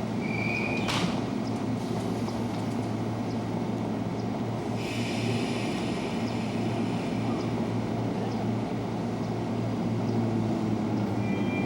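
Joban Line 203 series electric train running on the track, a steady rumble with a sharp click about a second in and a higher hiss from about halfway.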